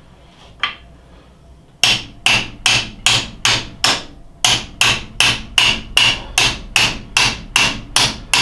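Hammer driving a long steel drift to knock a part out of a South Bend lathe's underdrive assembly. About a second and a half of small handling sounds come first, then a steady run of about sixteen sharp blows, two to three a second, each ringing briefly, with one short pause partway through.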